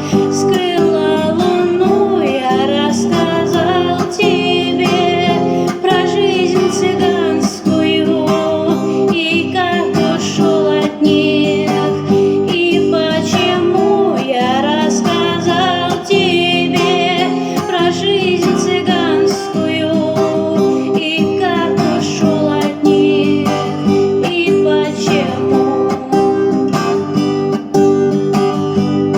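Acoustic guitar strummed in steady chords while a woman sings a melody with vibrato.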